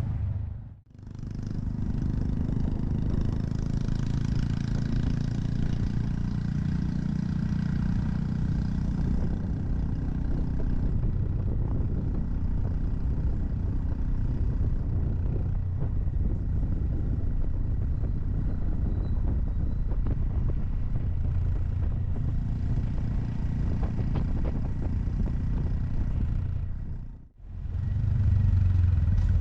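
Honda Monkey 125's single-cylinder four-stroke engine running at a steady cruise, with wind and road noise over it. The sound drops away briefly twice, about a second in and near the end.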